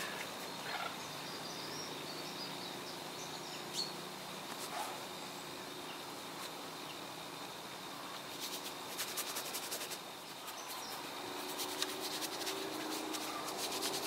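Wild birds calling faintly over a low steady hum, with scattered short chirps and a run of rapid, chattering clicks starting about eight and a half seconds in and lasting a few seconds.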